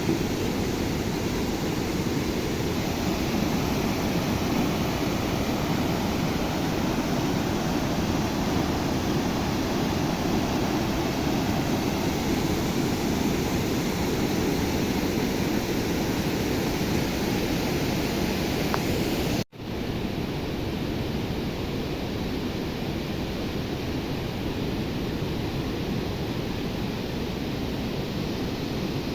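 Steady rush of fast-flowing floodwater in a swollen river. It breaks off abruptly about two-thirds of the way in and resumes a little quieter.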